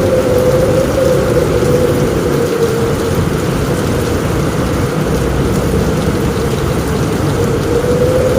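Heavy rain falling on a roof in a steady, dense wash, with a low rumble underneath.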